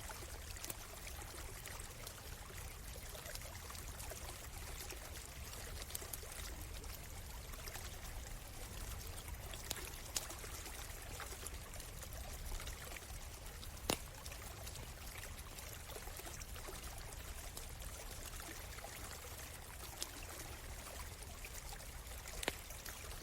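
A stream flowing steadily, with scattered sharp pops and crackles from a campfire, the loudest about fourteen seconds in.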